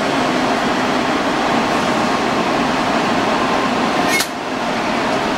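Steady whirring noise of a Shinkansen train standing at the platform, its air-conditioning and cooling blowers running. A single sharp click comes about four seconds in.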